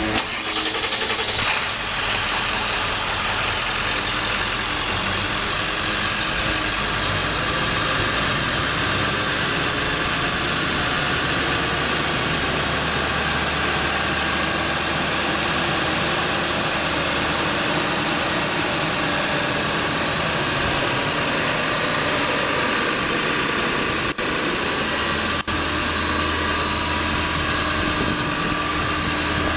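Ford F-450's 7.3-litre Power Stroke V8 turbo-diesel idling steadily.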